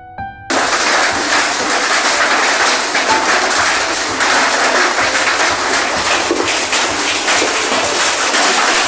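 Heavy hail and rain pelting hard surfaces in a dense, loud clatter of countless small impacts, starting abruptly about half a second in after a few music notes.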